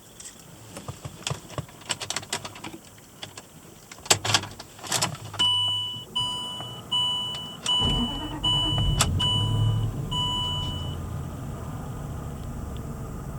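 Light clicks and a few knocks, then a two-note electronic chime beeping about seven times. About eight seconds in, the 2006 Range Rover Sport Supercharged's supercharged 4.2-litre V8 fires on a cold start, flares up and then settles into a steady idle.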